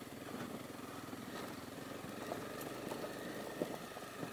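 Honda CB250R's single-cylinder four-stroke engine running steadily as the motorcycle is ridden over a gravel track, heard from a helmet-mounted camera, with a few faint clicks.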